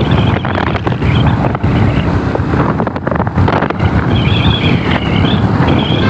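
Wind buffeting the microphone on a moving motorcycle, with the engine running underneath. A wavering high-pitched tone comes in about four seconds in and lasts a second or so.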